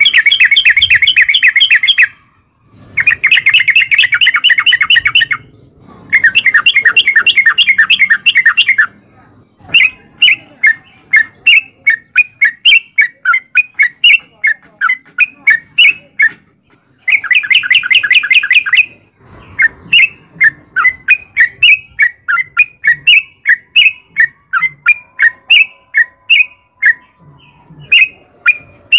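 Yellow-vented bulbul (trucukan) singing its long rapid song: chattering trills of two to three seconds, four times, with runs of separate short chirps about two a second between them.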